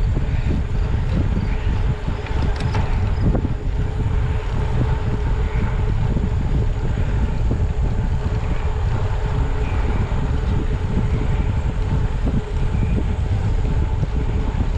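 Wind buffeting the microphone of a camera carried on a moving bicycle: a steady, loud rumble.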